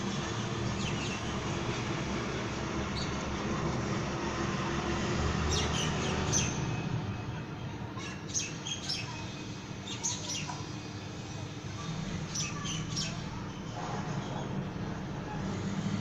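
Pet budgerigars chirping in short clusters of quick high chirps over a steady low background hum.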